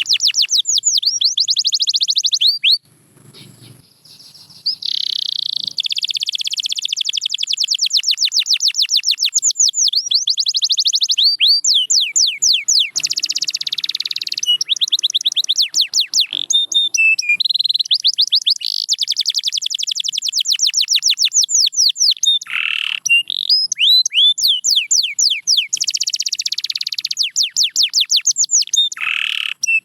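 Domestic canary singing in fast, high trills, each made of rapidly repeated sweeping notes, strung into long phrases. The song stops briefly about three seconds in and then carries on.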